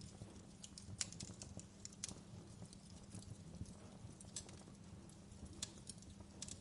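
Wood fire crackling, with irregular sharp pops and snaps over a low steady rumble of the burning logs. The loudest snap comes about a second in, another near the end.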